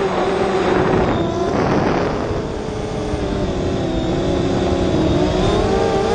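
Motors and propellers of an FPV racing quadcopter whining, the pitch sagging and then climbing again near the end as the throttle changes. A rushing burst of air noise runs through the first two seconds.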